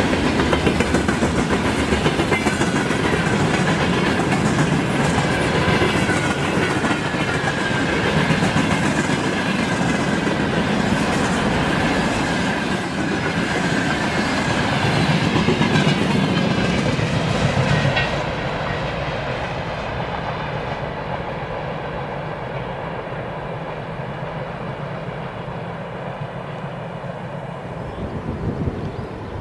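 Freight train wagons rolling past, their wheels clattering rhythmically over rail joints. About 18 seconds in the noise drops sharply as the train moves away, leaving a fading rumble.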